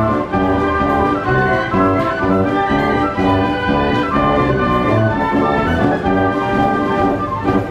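Wurlitzer 157 band organ playing a march-like tune on its pipes in a steady rhythm, falling away just at the end.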